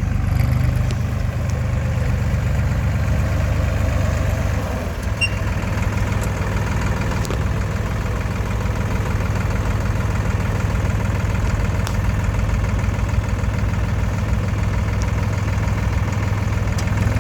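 Massey Ferguson 2615 tractor's diesel engine idling steadily.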